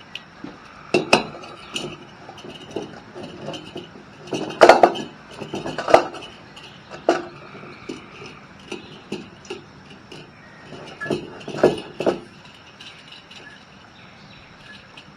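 Metal camp cookware being handled: irregular clinks and knocks of canteen cup and stove parts being unpacked and set down, most of them in a cluster through the middle.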